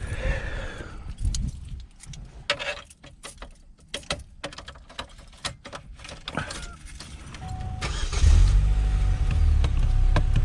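Keys jangling and clicking, then about eight seconds in the 2003 Chevy Cavalier's engine starts and runs with a steady low rumble.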